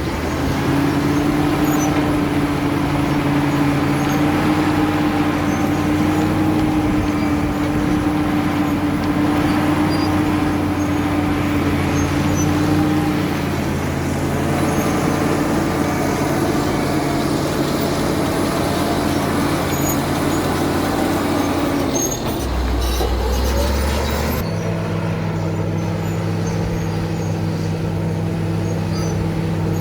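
Caterpillar D7 bulldozer's diesel engine running under load, loud and steady, its note shifting about halfway through. Near the end it breaks off briefly and gives way to a different steady engine note.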